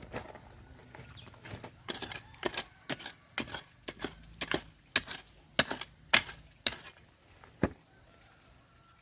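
A run of chopping blows on wood, about two a second, ending about a second before the close.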